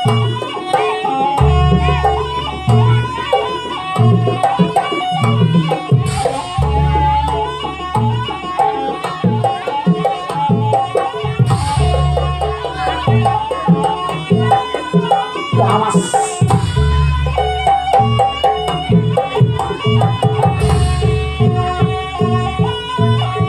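Traditional Javanese dance music played live: a busy hand-drum rhythm under a sustained melodic line, with a splashy cymbal-like crash about every four to five seconds.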